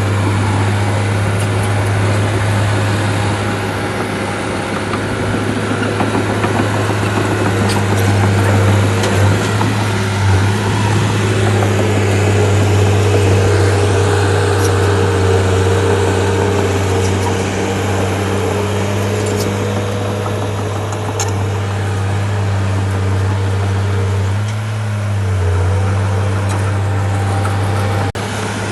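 Bulldozer's diesel engine running steadily under work, its note shifting a little with load and dipping briefly near the end.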